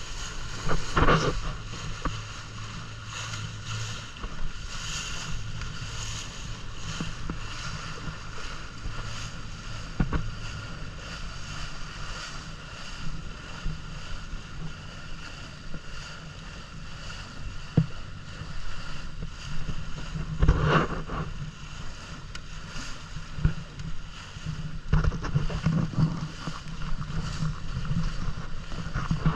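A boat's engine runs steadily with a constant hum and a few steady higher tones, while wind buffets the microphone in occasional louder gusts.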